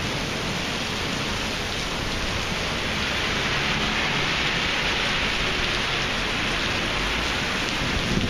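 Heavy thunderstorm downpour pelting a paved parking lot: a dense, steady hiss of rain. About midway an SUV rolls past through the standing water.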